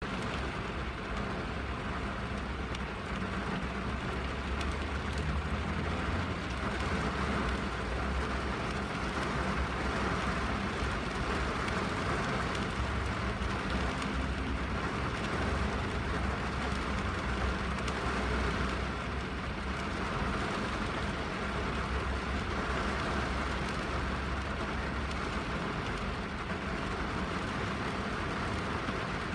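Rain falling on a car's roof and windows, heard from inside the cabin: a steady patter of drops over a low rumble.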